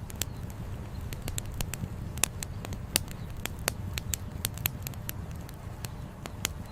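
Wood campfire crackling, with frequent irregular sharp pops and snaps, a few louder ones, over a steady low rumble.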